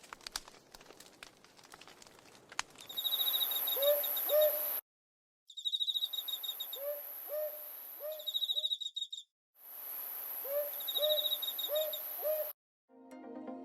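Faint clicking and rustling, then an owl hooting in short repeated hoots, two to four at a time, over high chirping trills and a steady high insect hiss. The sound cuts off abruptly twice and resumes, as an edited-in nature soundscape does.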